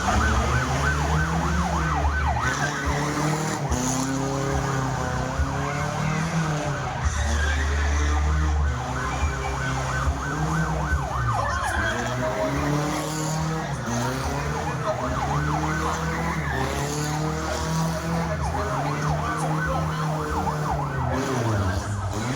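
Old car drifting: its engine revs up and down over and over while the tyres squeal in short, wavering bursts.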